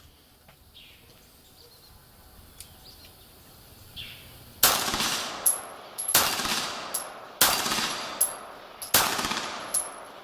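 Beretta 92G Elite Compact 9 mm pistol fired four times, about one and a half seconds apart, starting about halfway through. Each shot is followed by a short, high metallic ping from a steel plate target.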